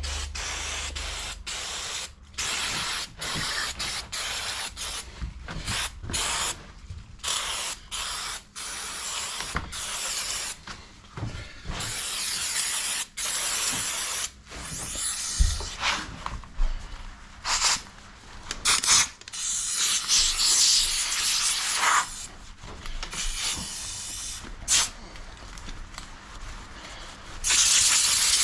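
Spray can of high-temperature engine paint spraying in a run of hissing bursts, some short and some a few seconds long, with brief pauses between passes.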